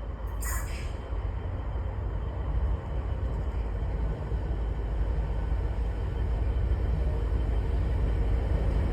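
Low rumble of an approaching diesel freight train hauled by Class 66 and Class 68 locomotives, growing slowly louder, with a short high-pitched sound about half a second in.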